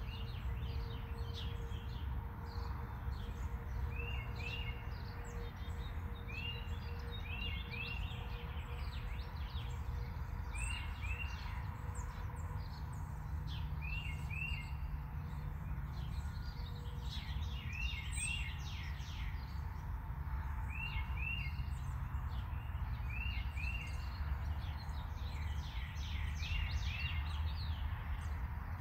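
A bird chirping repeatedly, in short paired chirps every few seconds with quicker higher notes between, over a steady low background rumble.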